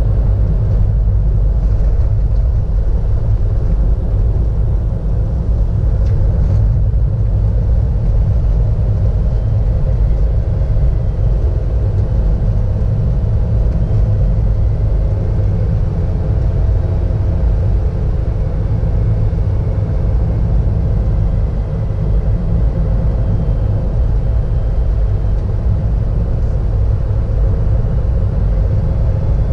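Car driving along a road, heard from inside: a steady low rumble of engine and tyre noise.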